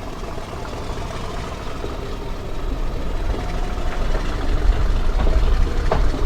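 Heritage railway train's low engine rumble, growing steadily louder.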